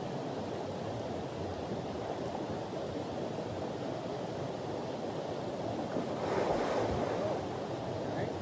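Steady low rushing outdoor noise, swelling slightly about six seconds in.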